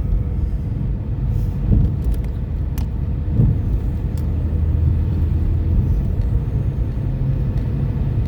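Car driving on the road, heard from inside the cabin: a steady low rumble of engine and road noise, with a few faint clicks.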